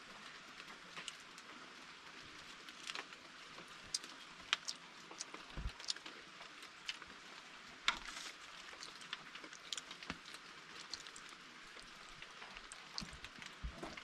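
Rain falling steadily, a soft hiss with irregular sharp drops striking close by.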